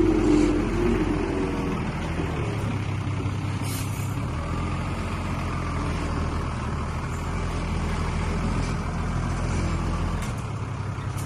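Heavy diesel construction machine running steadily under load, with a wavering squeal in the first second.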